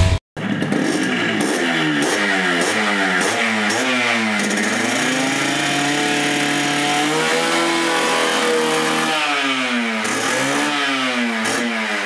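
Yamaha RX 115's two-stroke single-cylinder engine revving while parked. It is blipped up and down in quick repeated rises, held at a steadier higher speed for a few seconds in the middle, then blipped again near the end.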